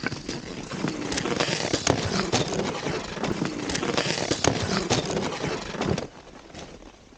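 Cross-country skis swishing over snow in a steady stride, with sharp strokes about two a second from the ski and pole plants, stopping about six seconds in.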